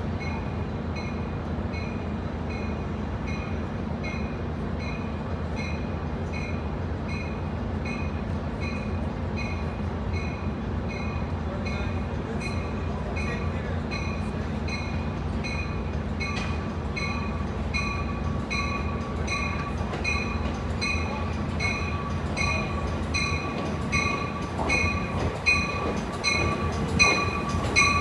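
Amtrak Pacific Surfliner train arriving, its bell ringing steadily at about three strokes every two seconds over the low rumble of the train. About halfway through, a steady high squeal of the brakes or wheels comes in, and louder clanks from the wheels follow near the end as it draws alongside.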